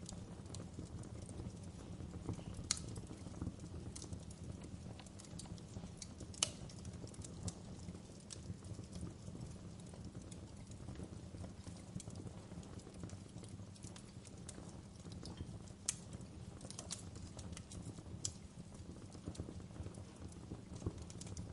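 Wood fire crackling in a fireplace: a steady low rumble of burning logs with irregular sharp pops and snaps, the loudest about 6 seconds in and again about 16 seconds in.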